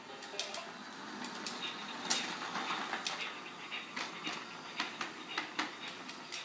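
LeapFrog toy train running along its plastic track: a steady rattle of motor and wheels with irregular clicks and clacks.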